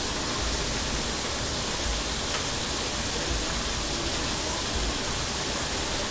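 Kitchen tap water running in a steady rush, rinsing out an emptied can.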